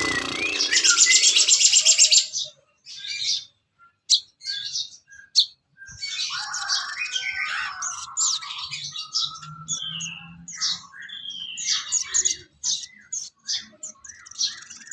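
Songbird song: a loud, fast, buzzy trill in the first two seconds, then a varied run of short chirps, whistles and sliding notes.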